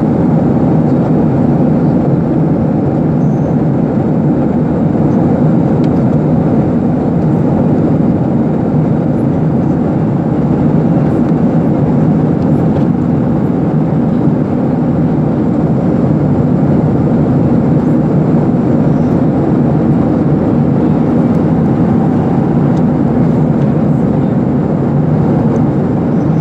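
Airliner cabin noise in flight: the steady, even hum of the jet engines and airflow heard from a passenger seat, unchanging throughout.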